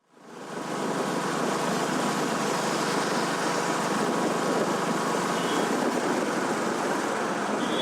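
Steady rush of wind and road noise from a motorcycle on the move, fading in over the first second and then holding even.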